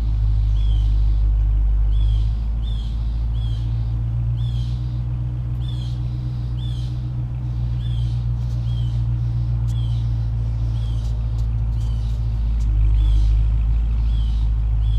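2018 Dodge Charger R/T Scat Pack's 6.4-litre HEMI V8 idling steadily with a deep, even exhaust rumble and no revving. A bird chirps over it, one short call about every second.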